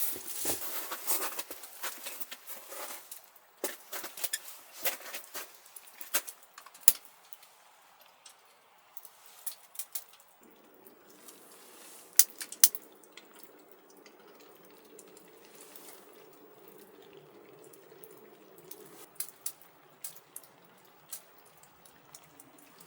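Water dripping and splashing in irregular drops, busiest in the first few seconds and sparser after. A steady low hum sets in about ten seconds in.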